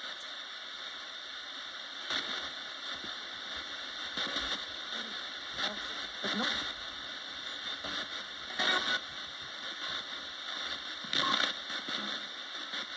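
Roberts radio used as a spirit box, sweeping through static: a steady hiss broken by short snatches of sound every couple of seconds.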